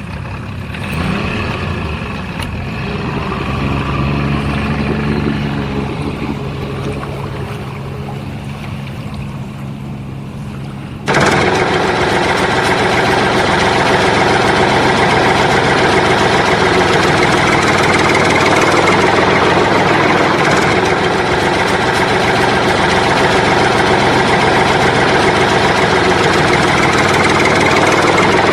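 Engine-like running sound, steady, that jumps abruptly louder and rougher about eleven seconds in and holds there.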